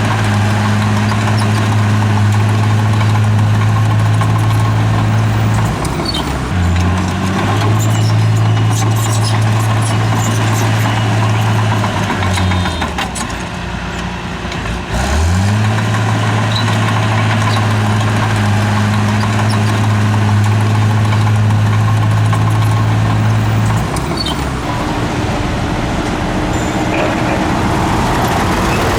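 Bulldozer's heavy diesel engine running steadily under load, its pitch dropping and recovering several times as the machine works and changes speed, with a sharp rise in revs about halfway through.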